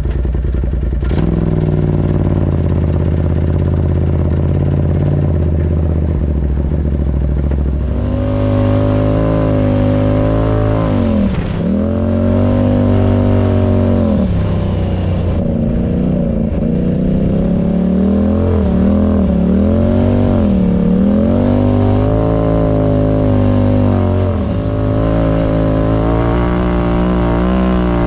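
Engine of an off-road vehicle driving under load, running steadily at first and then revving higher about eight seconds in. From there the revs drop and climb again several times as the throttle is let off and reapplied.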